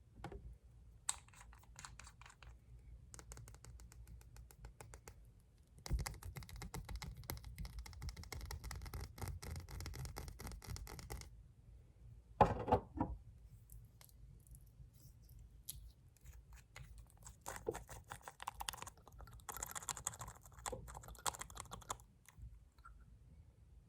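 Fast tapping and scratching on glass nail polish bottles. Sparse taps come first, then a dense run of rapid tapping for about five seconds, one louder knock just after it, and scattered taps and scratches near the end.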